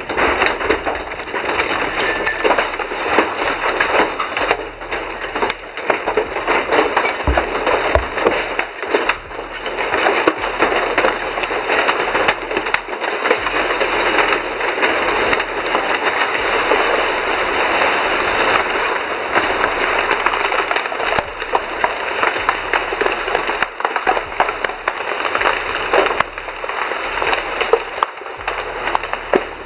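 Landslide debris on the move: a continuous dense clatter and crackle of rocks knocking together and wood splintering, with many sharp knocks.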